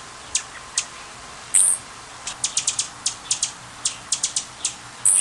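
Hummingbird giving a series of short, sharp, high-pitched chip calls at an uneven pace, with a brief buzzy squeak about a second and a half in and another near the end.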